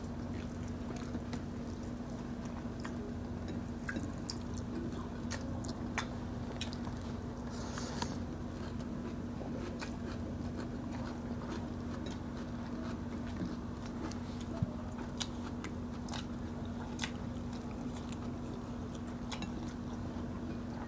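Close-up eating sounds of people chewing, with small irregular mouth clicks and smacks scattered throughout, over a steady low hum.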